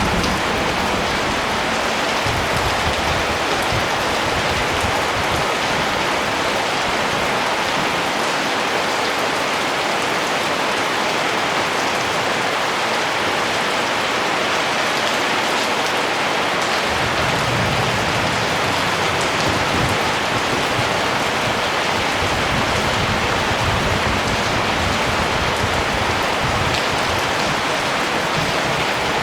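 Steady rain falling, an even hiss of many drops, with a low rumble swelling beneath it now and then, most of all in the second half.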